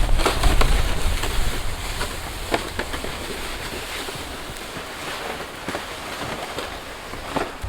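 Wind blowing across the microphone, a low rumbling buffet that eases after the first second into a steady hiss, with scattered short crunches.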